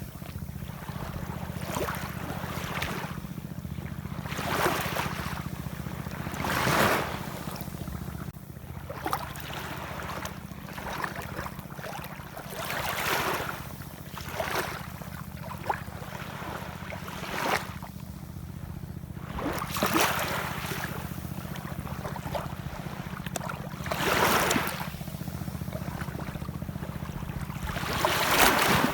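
Ocean waves washing in, each swell of spray and hiss rising and falling every few seconds, over a steady low rumble.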